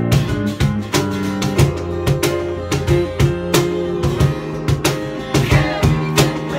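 Live band playing an instrumental passage of a rock song: strummed guitars over bass and drums with a steady beat, no vocals.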